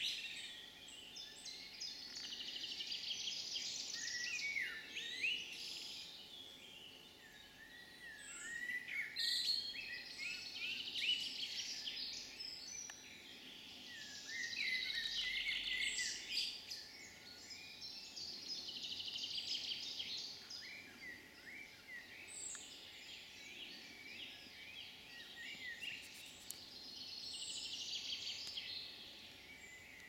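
Songbirds singing: high chirping and warbling phrases in bouts of a few seconds, with quieter pauses between, over faint steady background noise.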